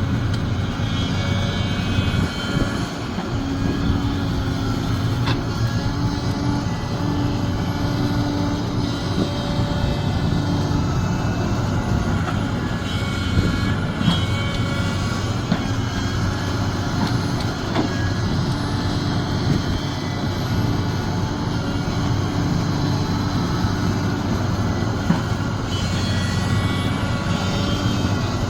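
Sumitomo SH370LHD-6 excavator's diesel engine running steadily as the machine works, with a droning tone that comes and goes and a few sharp knocks.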